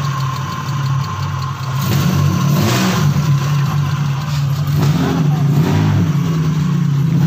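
Vehicle engine running through the knalpot exhaust being shown off, a loud, steady, deep exhaust note.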